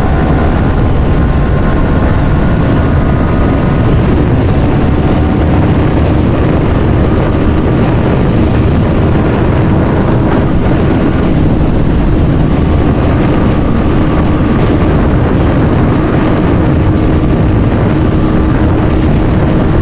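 Wind rushing over the microphone on a moving motorcycle at highway speed, with the engine's steady drone beneath; it holds level throughout.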